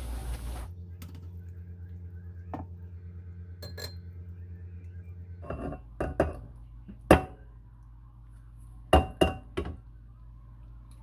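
Dishes and glassware clinking and knocking together: a string of separate sharp clinks, the loudest about seven seconds in and a quick pair near nine seconds, over a steady low hum.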